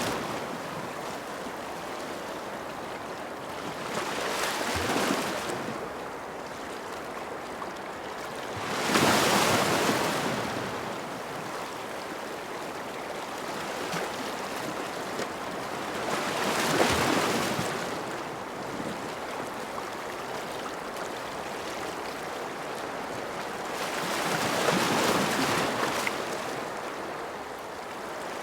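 Ocean waves breaking on a shore: a steady wash of surf with four slow surges, each wave rising and falling away over a few seconds, several seconds apart.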